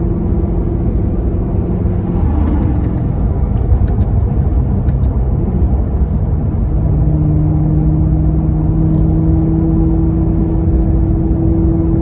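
Maserati Quattroporte Sport GT V8 engine running under way above idle with a deep rumble. Its note holds steady at first, shifts for a few seconds, then from about seven seconds in climbs slowly and evenly in pitch as the engine gains revs.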